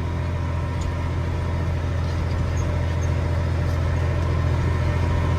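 Heavy diesel farm machinery engine running steadily, a constant low drone with no change in speed.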